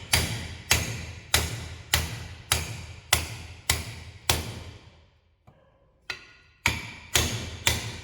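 Steady series of hammer blows on a metal tube used as a driver, knocking an old bushing out of a suspension control arm, each strike ringing briefly. About eight blows at just under two a second, a short pause about five seconds in, then three or four more.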